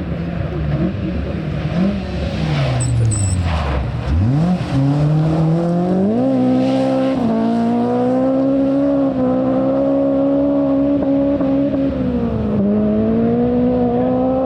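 Rally car engine under hard throttle. Its note drops away over the first few seconds, then climbs about four seconds in and holds high and steady, with a brief dip near the end.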